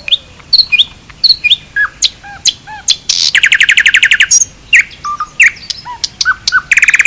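Birds chirping and singing: a string of quick chirps and whistled notes, with a fast trill lasting about a second from about three seconds in, and another short trill near the end.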